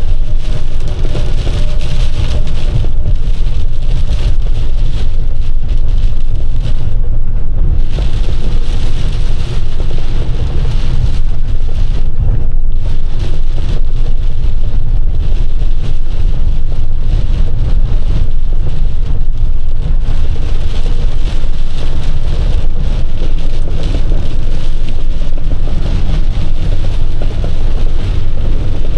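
Box truck's cab at highway speed: a steady low engine and road rumble with the hiss of rain and wet pavement. The hiss drops out briefly twice.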